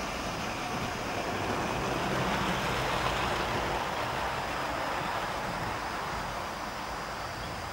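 Model train running on the layout's track, a steady rolling rush that swells to its loudest about three seconds in and then slowly fades as it passes by.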